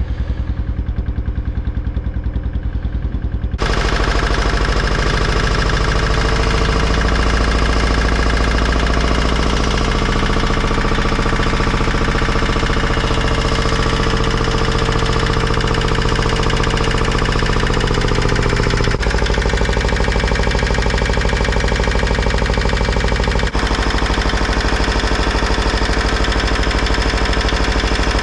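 Antique single-cylinder diesel generator engine running steadily with a rapid, even beat and a rattle that the owner doubts is healthy. About three and a half seconds in, the sound abruptly gets louder and fuller.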